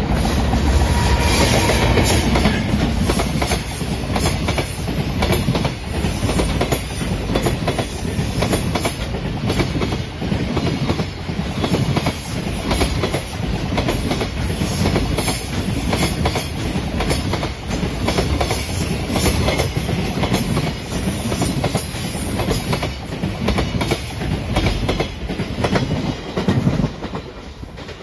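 Freight train hauled by a JR Freight EF210 electric locomotive passing close by: a steady loud rumble of container wagons with wheels clattering irregularly over the rail joints, dropping away near the end as the train goes past.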